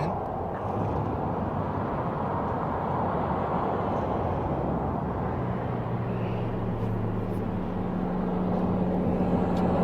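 Steady road and engine noise from a car driving along, with a low engine hum coming in about halfway through.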